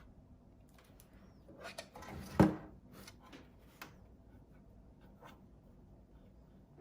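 Faint handling noises: rubbing and light clicks, with one sharp knock about two and a half seconds in.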